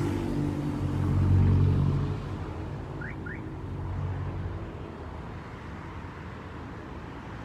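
A motor vehicle's engine running in street traffic, growing louder about a second in and then fading away. Two brief rising chirps sound about three seconds in.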